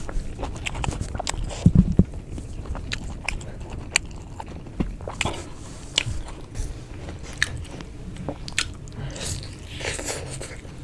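Close-miked eating: a person biting and chewing food with irregular wet smacks and clicks. There are a few louder low thumps about two seconds in.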